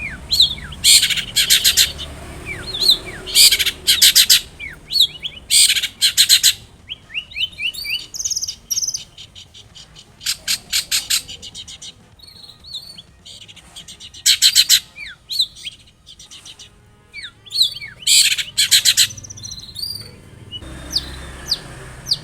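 Long-tailed shrike (cendet) singing in full voice: bursts of fast, harsh chattering notes about a second long, repeated every few seconds, with short thin down-slurred whistles in between.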